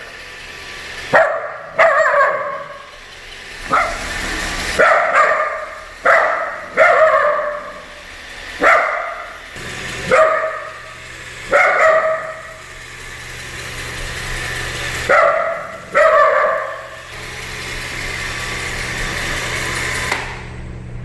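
Shih Tzu-poodle mix puppy barking again and again in short single and double barks, about fifteen in all, stopping about three-quarters of the way through. A Roomba robot vacuum's steady low hum runs underneath.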